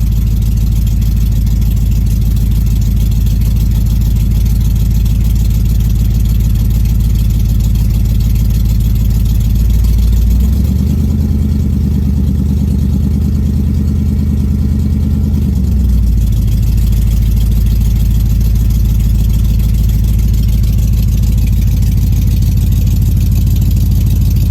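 A 1983 Pontiac Firebird's swapped-in 5.3-litre LS V8 idling shortly after a cold start in freezing weather. Partway through, the engine speed rises, holds for about five seconds, then drops back to idle.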